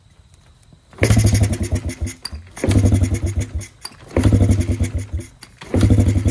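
Honda CRF50F's small single-cylinder four-stroke engine being kick-started four times in a row, each kick spinning it over with a fast chugging for about a second without it catching. The bike has sat unused for years.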